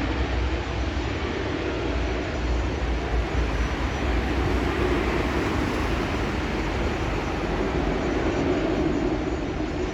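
Airliner engine noise: a steady rumble and roar that swells slightly about halfway through.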